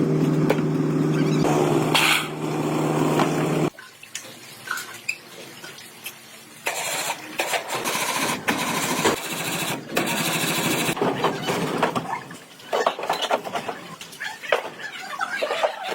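An engine running steadily at an even pitch, cut off abruptly about four seconds in. After it come scattered clicks and knocks, with a few seconds of dense hissing or grinding noise in the middle.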